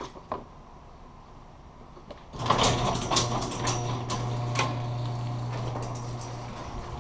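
Bicycle starting to roll on a trail: about two and a half seconds in, a sudden dense rattling and clicking begins over a steady low hum.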